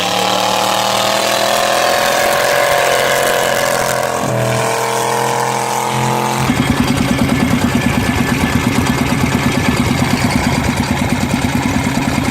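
Boat engine running: its pitch rises slowly over the first few seconds, then about six seconds in it settles into an even, fast pulsing beat.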